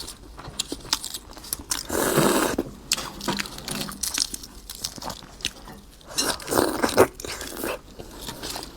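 Close-up eating of a half-hatched egg (balut): wet chewing and crunching with many small clicks, and two longer noisy bursts about two seconds in and about six and a half seconds in.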